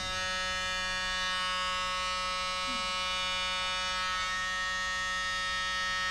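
Small high-speed electric rotary tool, of the kind used to grind down a bird's nails, running steadily at a constant pitch.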